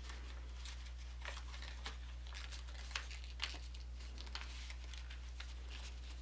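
A sheet of paper being creased and folded by hand, giving faint, irregular crinkles and light ticks as it is pressed flat, over a steady low hum.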